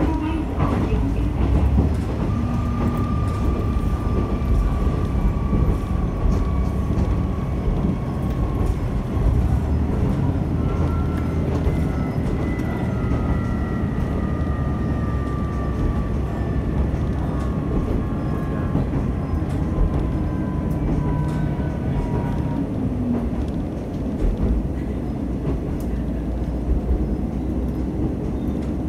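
MR-600 diesel railcar running along the line, heard from inside: a steady rumble of engine and wheels on rail with occasional clicks, and a faint whine that slowly falls in pitch.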